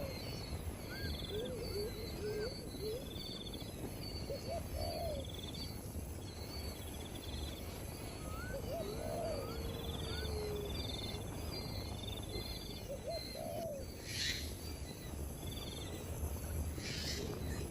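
Wild birds calling outdoors: many short low calls that rise and fall, some higher trills, over a steady high insect buzz. Two brief hissing rushes come near the end.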